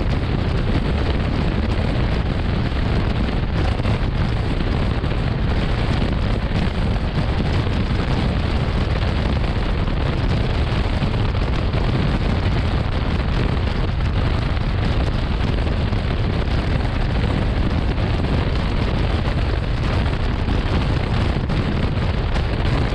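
Gatimaan Express running at high speed, heard from on board: a steady rumble and rush of wheels on rail and air with no break or change.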